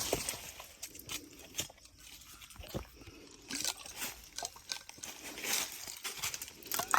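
Footsteps crunching irregularly on loose ground.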